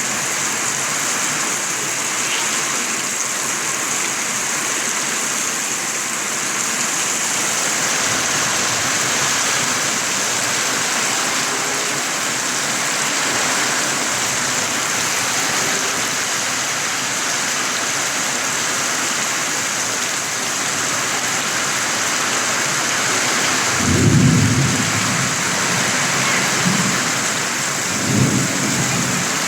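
Heavy rain pouring steadily in a thunderstorm. Two brief low rumbles of thunder come late on, the second near the end.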